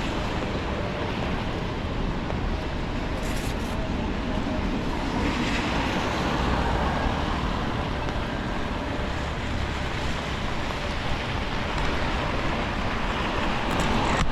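Steady city traffic on rain-wet streets, tyres hissing on the wet road, with the hiss swelling as a vehicle passes about halfway through.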